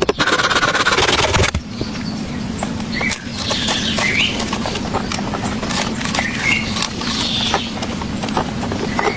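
Birds chirping in short curved calls, repeated every second or so, over a steady low hum and scattered small clicks. The first second and a half is taken up by a loud burst of rustling noise.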